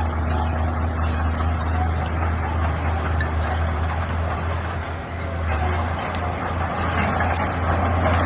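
Heavy diesel earthmoving machinery running steadily under load, a deep engine hum with scattered metallic clinks and clanks.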